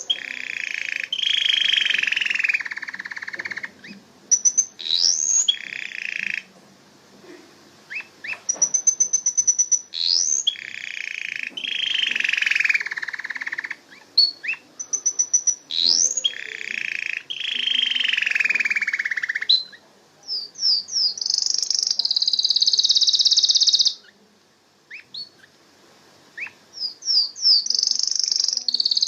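Domestic canary singing a varied song of long rolling trills, fast runs of repeated notes and quick rising whistles, in phrases broken by short pauses.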